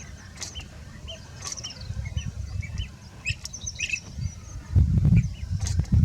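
Blue-tailed bee-eaters calling: a run of short, repeated chirps with some higher notes over them. Under them a low rumble swells, loudest about five seconds in.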